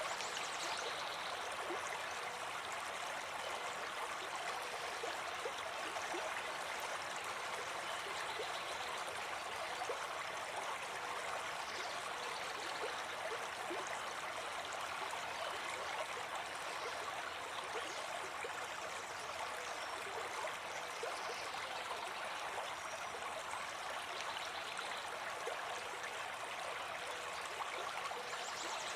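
River or stream water running over rocks, a steady rushing with small splashes and gurgles throughout.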